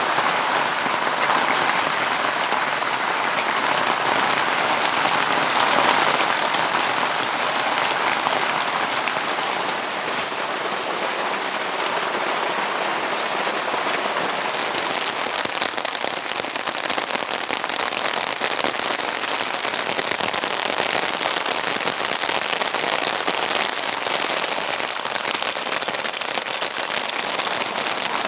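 Steady rain pattering on a surface, many fine drop impacts throughout.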